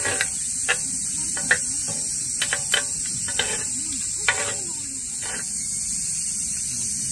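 Food sizzling steadily on a round black griddle pan over a portable camping stove, with utensils clicking and scraping against the pan about eight times as it is stir-fried during the first four and a half seconds, then only the sizzle.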